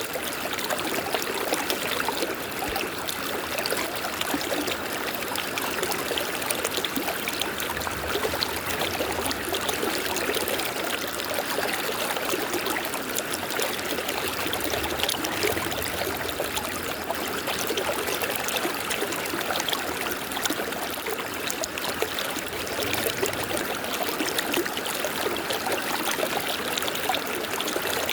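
River water flowing steadily, a continuous babbling rush with fine splashing and no let-up.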